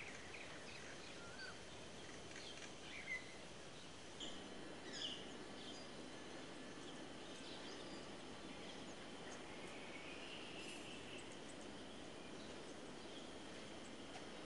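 Small birds chirping outdoors, a few short high chirps in the first five seconds, over a steady hiss of outdoor background noise.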